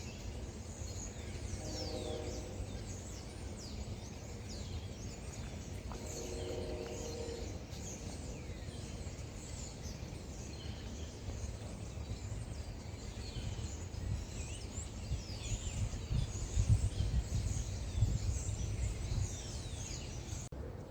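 Wild birds chirping and calling again and again, with two longer, lower calls early on the track, over a low outdoor rumble. The rumble turns louder and uneven in the last few seconds.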